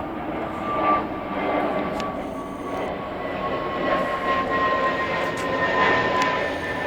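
Cessna Citation Mustang's twin turbofan engines running: a loud jet rush with a high whine that slowly falls in pitch.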